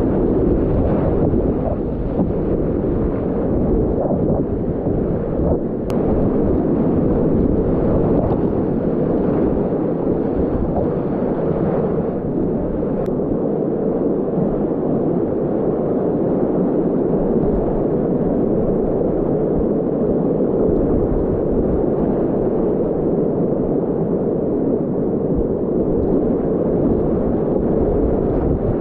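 Steady, loud rush of continuous whitewater rapids heard close up from a kayak, with water and wind buffeting the microphone.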